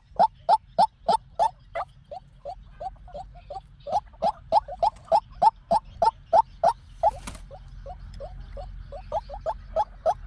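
White-breasted waterhen calling: a long, fast run of short repeated notes, about three a second, swelling and fading in loudness, the call used as a lure for trapping waterhens. A brief hiss about seven seconds in.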